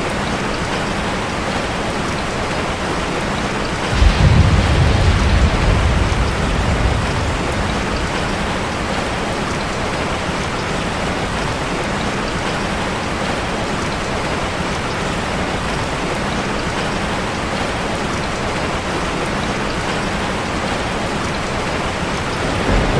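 Steady rain drumming on a metal roof. About four seconds in, a sudden low rumble rises and fades over a few seconds.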